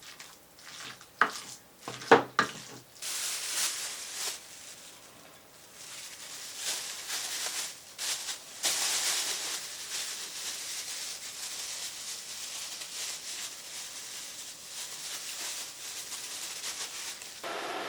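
A few clattering knocks of a utensil against a pan, then food sizzling steadily in a frying pan.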